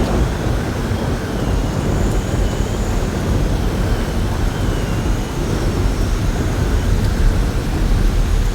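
Steady heavy rain and strong wind with a deep, continuous rumble and a faint, wavering high whistle of wind.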